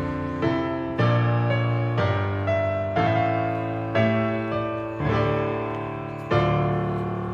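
Background piano music: slow chords, each struck and left to ring and fade, a new one about every second.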